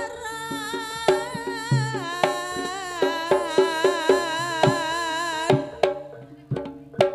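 Traditional Javanese folk dance music: a high, wavering lead melody over steady hand-drum strokes and pitched struck percussion. The lead melody stops about five and a half seconds in, leaving the drums and struck notes.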